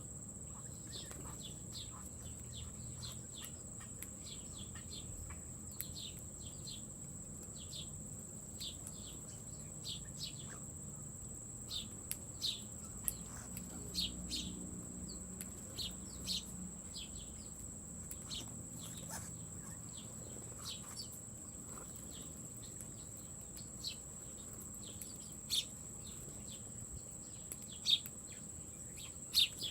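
Small birds chirping: many short, high chirps scattered throughout, a few louder ones near the end. A steady high-pitched whine runs underneath.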